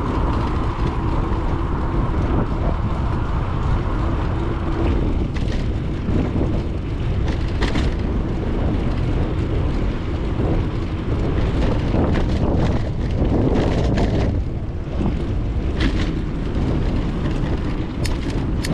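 Wind buffeting the microphone of a bicycle-mounted action camera while riding, with tyre and road rumble and scattered sharp clicks and rattles. A faint steady hum fades out about five seconds in.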